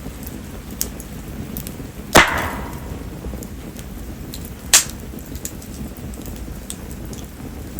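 Mayumi (spindle tree) firewood burning in a campfire under steady rain, with scattered small ticks and two sharp snaps: a loud one about two seconds in with a brief ringing tail, and another a little before the five-second mark.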